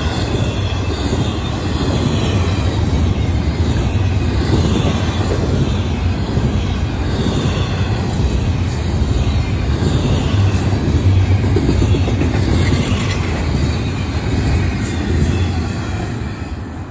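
A double-stack intermodal freight train passing at speed: the loud, steady rumble of its well cars' wheels on the rails, with faint high wheel squeal drifting through. The sound eases off a little near the end as the cars move away.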